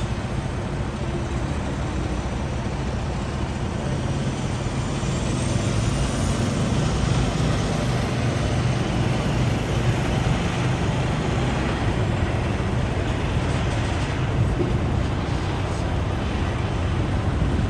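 Steady engine idling with a constant low hum and road-traffic noise, unchanging throughout.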